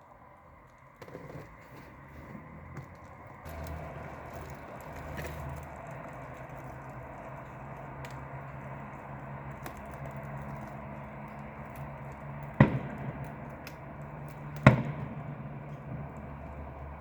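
Two sharp firework bangs about two seconds apart near the end, over a steady low hum.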